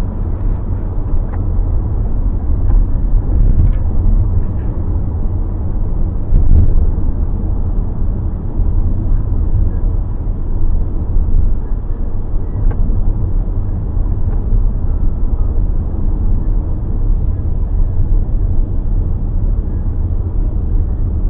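Steady low rumble of road and engine noise inside a moving car's cabin, with a few faint ticks and clicks.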